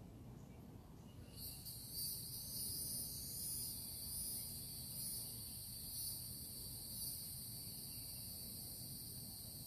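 An insect's high-pitched buzz starts abruptly about a second and a half in and then holds steady, swelling roughly once a second, over a low background rumble.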